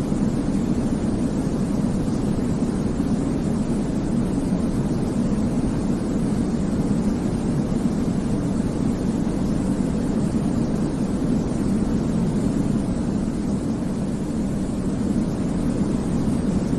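Steady white noise for baby sleep, weighted to the low end so it sounds like a deep, even rush, with no changes or breaks.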